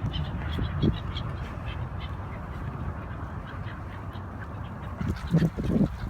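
Waterbirds calling: a few faint high chirps in the first two seconds, then a cluster of short, louder low calls about five seconds in, over a steady low rumble.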